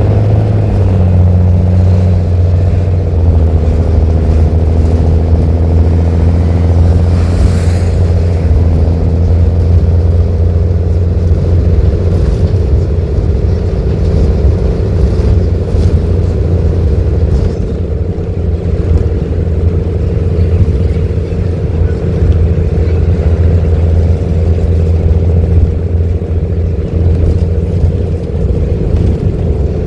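Mercedes-Benz OH-1318 bus's diesel engine running loud through an open, free-flowing exhaust. A steady low drone whose pitch shifts in the first few seconds, with a brief hiss about seven seconds in.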